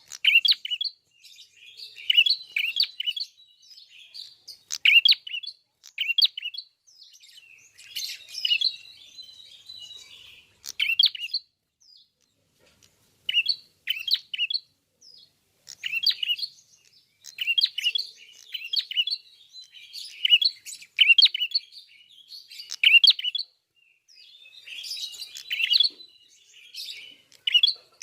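Male ashy tailorbird (prenjak kepala merah/klawu) singing in full voice: repeated short bursts of sharp, high chirping notes every second or two, with a longer pause about twelve seconds in.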